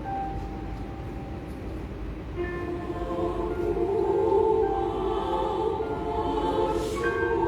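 Women's choir singing held chords, softly at first and then fuller and louder from about two and a half seconds in.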